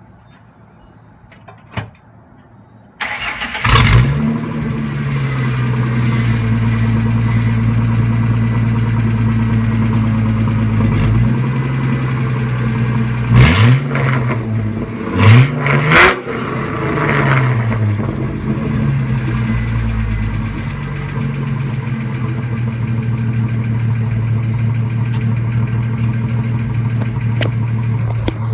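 1999 Ford Mustang's 3.8-litre V6 through a Pypes true dual exhaust with an off-road X-pipe. It starts up about three seconds in and settles into a steady idle. Around the middle it is revved briefly twice, then drops back to idle.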